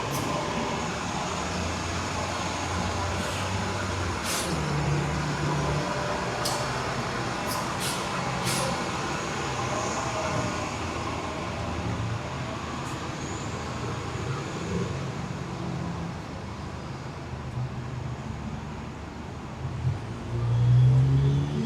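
Downtown street traffic: vehicle engines running under a steady city hum, with a few sharp clicks in the first half. Near the end, one engine's pitch rises as a vehicle pulls away.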